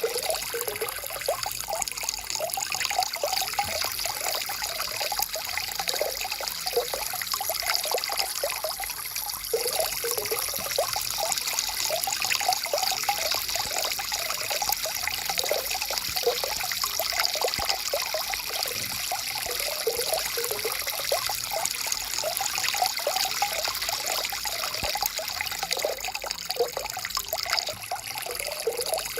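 Stream water flowing steadily, a continuous rush with many quick gurgles.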